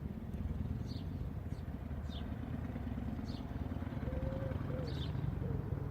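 A Harley-Davidson 883 Iron's air-cooled V-twin with a drilled-out muffler running at a steady low idle. Over it a small bird chirps about once a second, and a dove coos in the second half.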